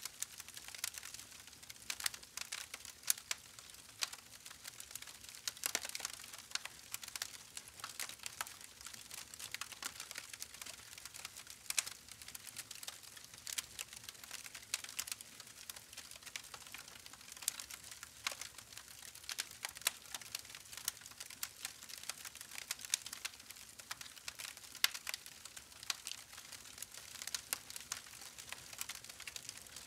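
Campfire burning, the wood crackling and popping in many irregular sharp snaps over a faint hiss.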